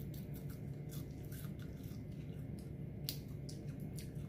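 A person biting into and chewing a crunchy pan-fried tomato hornworm: irregular short crunching clicks over a steady low hum.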